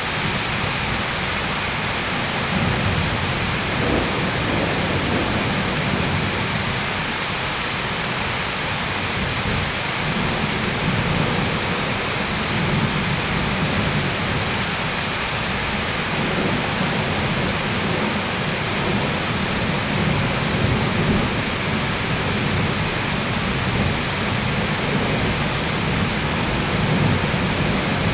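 Heavy rain falling steadily, with low thunder rumbling that swells and fades several times.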